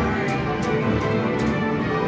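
Lightning Link slot machine playing its bonus-round music, a steady stream of electronic tones with a few short clicks.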